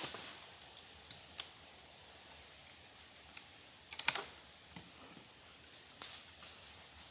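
A few scattered sharp clicks and light snaps, the loudest cluster about four seconds in.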